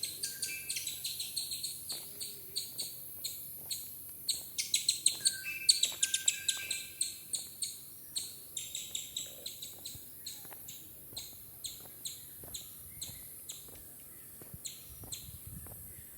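Wild birdsong: a long run of short, high chirps, about two a second and busiest around five to seven seconds in, with a few lower whistled notes among them.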